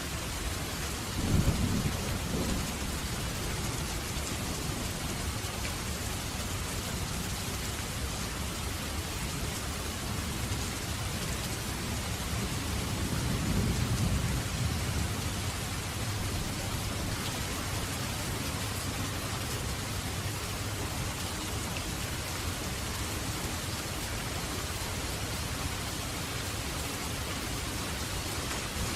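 Steady heavy rain hissing, with thunder rumbling twice: a short low rumble about a second in, and a longer, slower one that swells and fades about halfway through.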